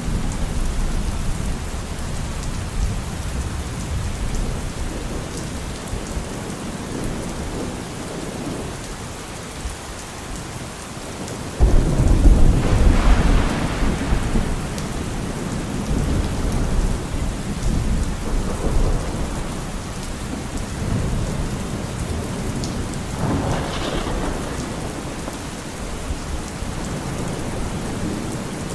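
Steady heavy rain with low rolling thunder. About twelve seconds in, a sudden loud thunderclap breaks in and rumbles for a few seconds, and a smaller roll of thunder follows near the end.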